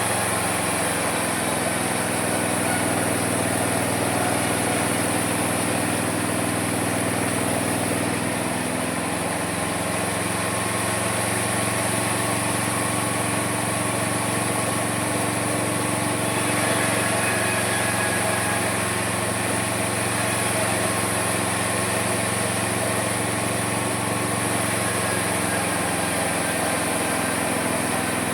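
The small engine of a homemade mini sawmill runs steadily while the saw cuts wood. Its note shifts about eight seconds in and again about sixteen seconds in as the load changes.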